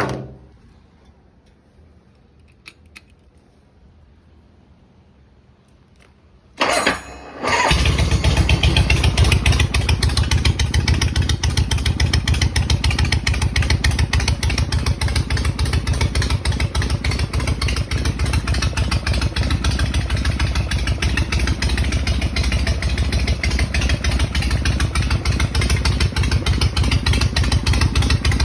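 1983 Harley-Davidson Shovelhead V-twin cold start: a single sharp knock, several seconds of quiet, then a brief crank. The engine catches about seven seconds in and settles into a steady, loud, fast-pulsing idle.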